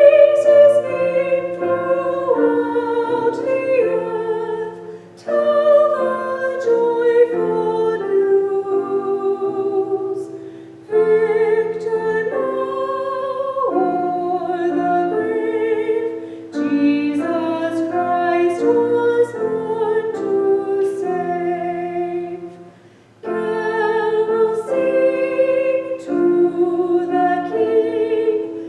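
A solo singer with a classical vibrato singing a sacred song to piano accompaniment, in phrases separated by short breaths.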